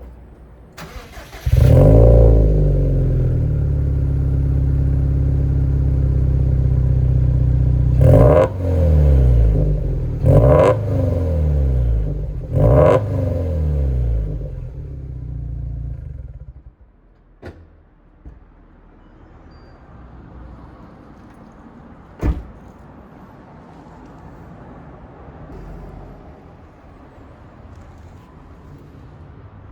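Subaru WRX STI's turbocharged flat-four, breathing through an aftermarket muffler and sports catalytic converter, starting up and idling loudly. It is blipped three times in quick revs, then switched off. Two sharp clicks follow in the quiet afterwards.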